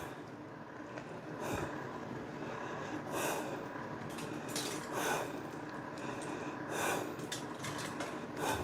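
Faint, soft breaths and handling noises, several short hissy sounds a second or two apart, as corn on the cob is coated with mayonnaise and Parmesan.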